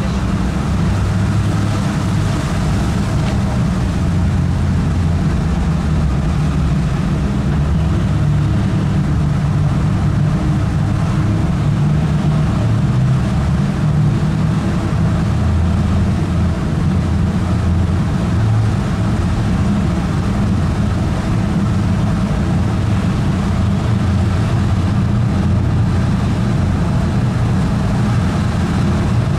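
A car driving along, its engine and tyres making a steady low rumble with no change in pace.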